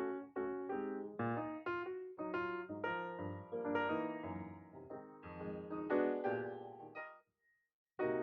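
Background piano music, a melody of struck notes that stops about seven seconds in, followed by a second of silence.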